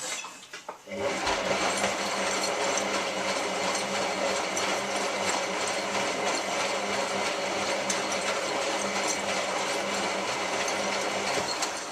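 Hotpoint 9534A washing machine running mid-wash, a steady mechanical whirr with a constant low hum. It starts about a second in and cuts off abruptly at the end.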